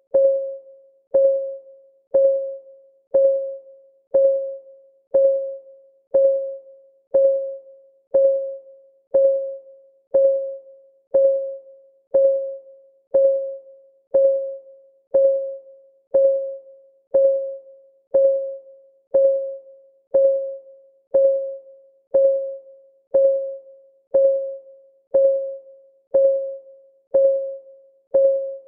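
Clock ticking sound for a countdown timer: one short, pitched tock every second, evenly spaced, each dying away quickly.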